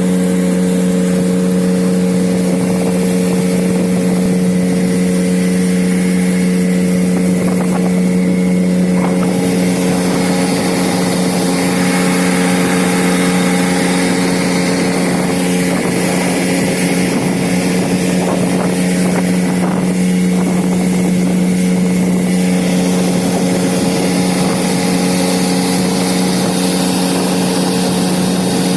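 Johnson 8 hp outboard motor running at a steady, unchanging pitch, driving an inflatable boat under way.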